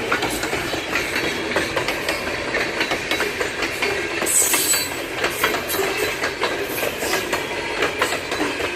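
Freight train of refrigerated boxcars rolling past close by: a steady rumble with rapid clicks and knocks of wheels over the rail joints, and a brief high wheel squeal about four seconds in.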